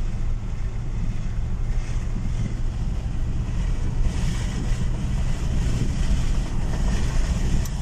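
Chevrolet Avalanche pickup driving with a steady low engine and road drone, the engine holding a low gear because the automatic transmission has not yet shifted up: a delayed shift.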